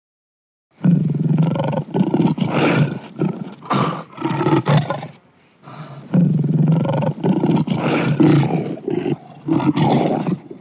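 Lion roaring in two long, rough bouts, with a short break about halfway through.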